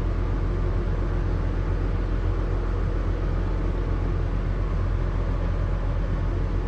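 Excavator's diesel engine running at a steady speed, a low, even drone with no change in pitch.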